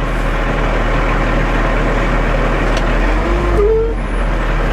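Ready-mix concrete mixer truck's diesel engine running steadily as the truck crawls slowly, with a short rising squeak-like tone near the end.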